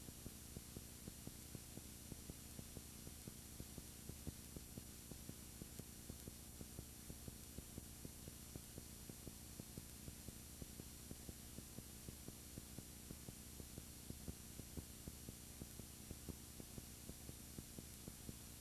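Faint, steady electrical hum under hiss, with constant light crackling clicks. No other sound is present: the recording's audio has gone dead.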